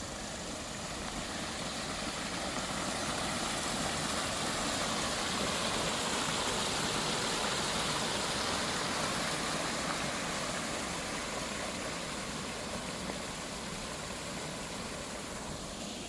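A vehicle passing by: a rush of road noise that swells over several seconds, peaks midway, then slowly fades.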